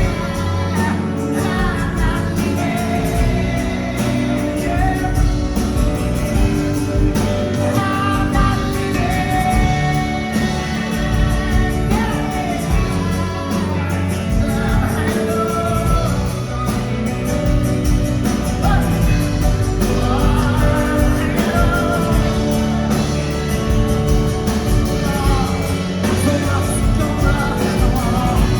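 Live band music with wordless singing over guitar and a full band, recorded from the audience.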